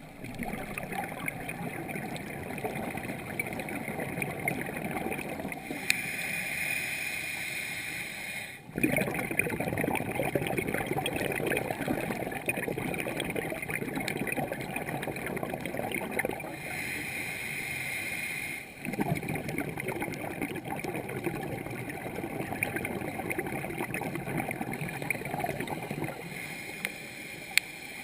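Scuba diver breathing through a regulator underwater. Short hissing inhales, about two seconds each, alternate with long gurgling streams of exhaled bubbles, roughly one breath every ten seconds.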